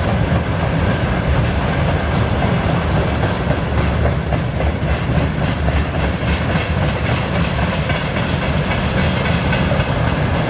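Loaded freight train's wagons rolling past steadily, wheels clattering over the rail joints.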